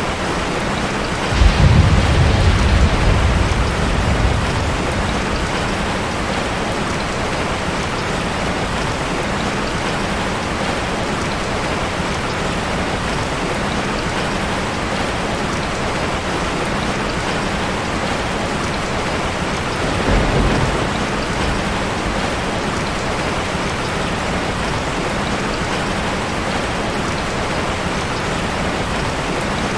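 Steady rain falling on a metal roof. A low rumble of thunder comes in about a second and a half in and fades over a few seconds, and a shorter, fainter rumble comes about two-thirds of the way through.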